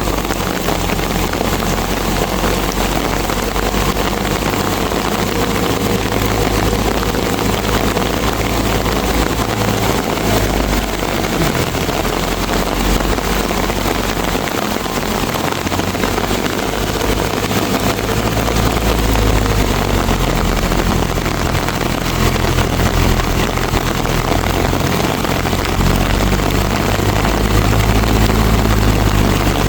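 Mahindra tractor's diesel engine running steadily with a low, even drone that gets slightly louder near the end.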